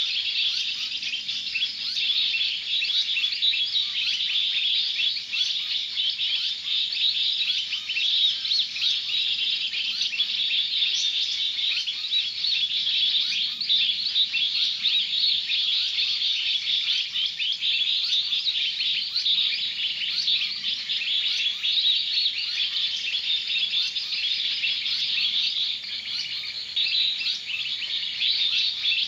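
Dense, continuous chirping of many small birds, a steady mass of short high calls with no pause.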